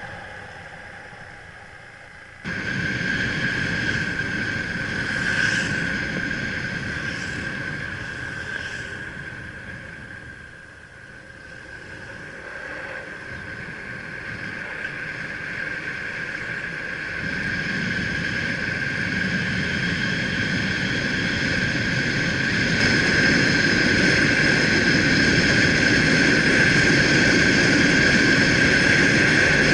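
Motorbike riding on the road, its engine and wind noise on the microphone, with a steady high whine over the top. It starts suddenly about two seconds in, eases off briefly partway through, then grows steadily louder.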